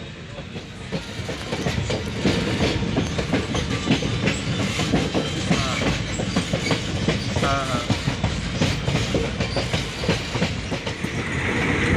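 Passenger train running along the track, its wheels clattering over the rail joints and the carriage rattling steadily. The clatter grows louder about two seconds in.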